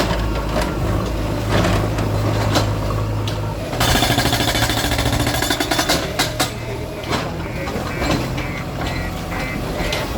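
Heavy demolition machine at work: a diesel engine running steadily, then about four seconds in a loud stretch of rapid pounding and crashing lasting about two seconds, followed by scattered knocks.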